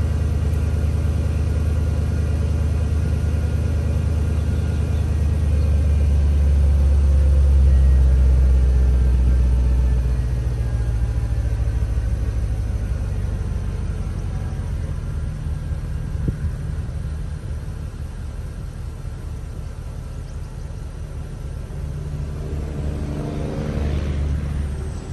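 Porsche Cayenne GTS engine idling after a cold start, a steady low rumble that swells a few seconds in, then eases off, with another brief rise near the end.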